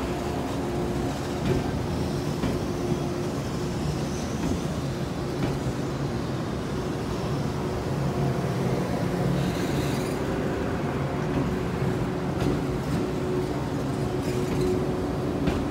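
The 'Hana' party train's cars rolling slowly past along the platform, a steady running noise of wheels and running gear with a steady low hum and a few faint ticks.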